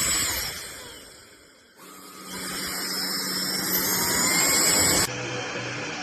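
Cordless stick vacuum's motor whine dying away, then starting up again and rising in pitch as it spins up. The sound cuts off abruptly near the end.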